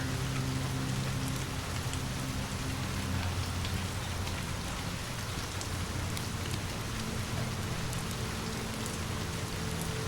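Steady rain falling, with scattered light ticks of drops or crackles over an even hiss. A low, steady held hum sits underneath and changes pitch about halfway through.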